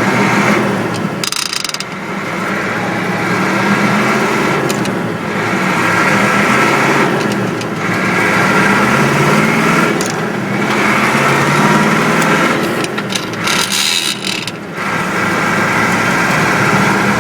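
Caterpillar 3208 naturally aspirated V8 diesel with true dual exhaust pulling under load, its pitch rising in stretches and dropping off at short breaks about every three seconds as the truck is shifted up through the gears.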